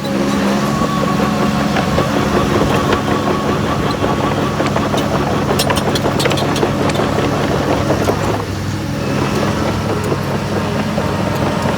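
Heavy diesel engine of earthmoving machinery running steadily, with a cluster of sharp metallic clicks and clanks about five to seven seconds in.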